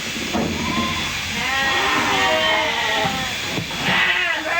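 Sheep bleating, several calls overlapping one after another.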